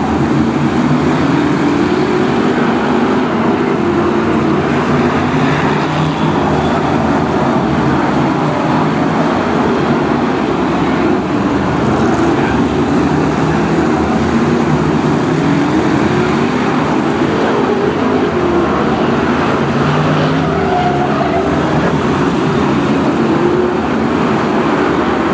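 BriscA F1 stock cars' V8 engines racing as a pack, revving up and down over and over as they lap.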